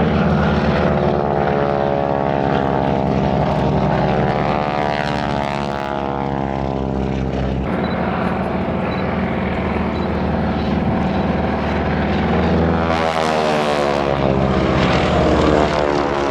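Boeing Stearman biplanes, upgraded 'Super Stearmans', flying a display pass. Their radial engines drone with the rasp of propeller tips going supersonic, and the pitch slides as the planes move, shifting about eight seconds in and sweeping again near the end.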